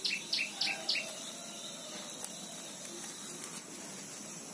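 A small bird chirping a quick run of repeated high, falling notes, about three a second, which stops about a second in. After that there is only a faint outdoor background with one small click.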